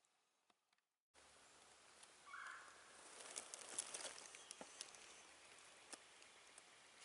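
Quiet woods with faint rustles and small clicks near the microphone. About two seconds in, a wild turkey gobbles once, brief and faint in the distance.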